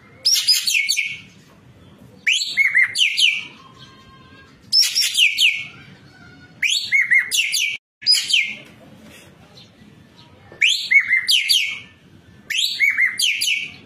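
An ekek keling bird singing in repeated loud bursts, seven in all, each about a second of rapid high-pitched notes sweeping downward, with short gaps between them.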